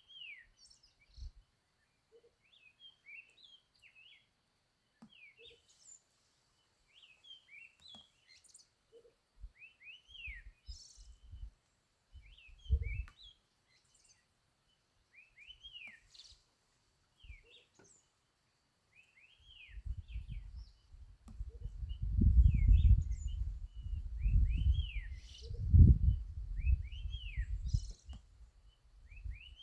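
Songbirds chirping over and over, short high arched chirps in quick runs. About two-thirds of the way in, a loud low rumble comes in and stays, louder than the birds.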